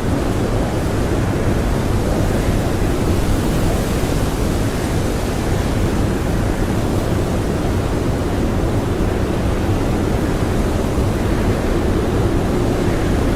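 Strong blizzard wind blowing steadily, a deep, even rushing with no gusts or breaks.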